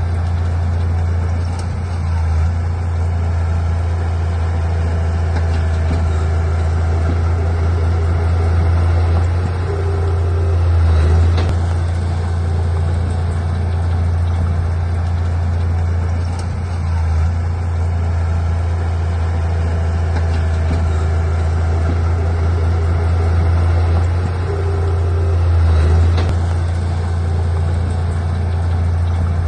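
Heavy earthmoving machine's diesel engine running with a steady low drone, swelling briefly twice as it comes under load, about a third of the way in and again near the end.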